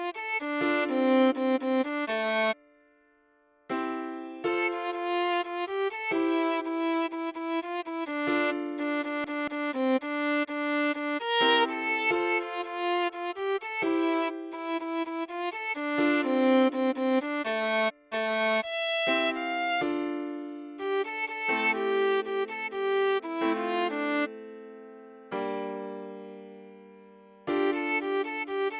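Viola playing a pop melody note by note, mostly short notes in phrases with a brief pause about three seconds in, then longer held notes that fade away near the end.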